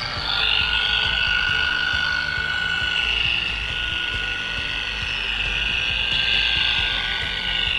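Electric orbital buffer running steadily with a high whine while buffing polish on an aircraft exhaust stack.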